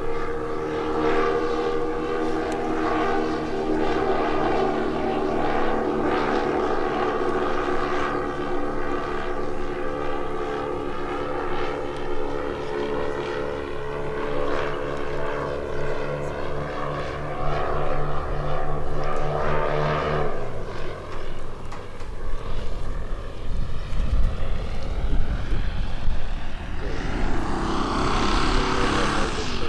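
Twin piston engines of a quarter-scale Beech-18 model airplane running steadily in flight with a propeller drone. About two-thirds of the way through the engine note drops away sharply, as when the throttle is pulled back. A low, uneven rumble follows, with a broader swell of noise near the end.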